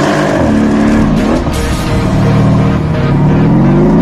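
Mercedes-AMG 5.5-litre V8 biturbo (M157) engine accelerating hard. Its pitch drops twice in the first second and a half as it shifts up, holds, then climbs again near the end.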